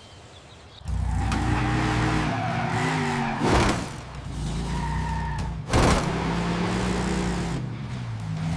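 Vehicle engine sound effect that starts about a second in and runs loudly with its pitch stepping up and down, cut by two sudden loud swooshes near the middle.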